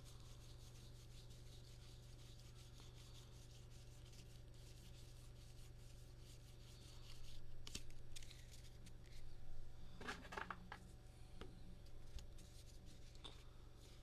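Trading cards being handled and slid against one another as a stack is flipped through: a faint rubbing that grows louder and busier after about seven seconds, with a few clicks. A steady low hum runs underneath.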